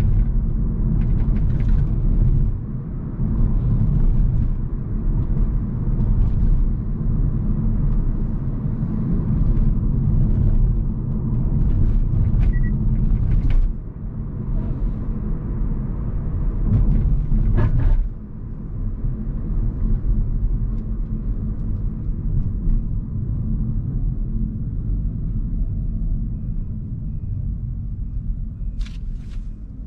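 Steady low road and tyre rumble of a Hyundai Kona Hybrid being driven, with scattered short knocks. The rumble drops quieter about 14 seconds in and again about 18 seconds in.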